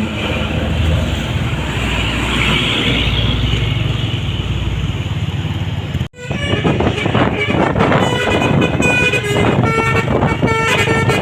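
Truck engine running with road noise; then, after a sudden cut about six seconds in, a Mitsubishi Fuso truck's basuri musical horn sounds a run of short tuneful notes that step between pitches.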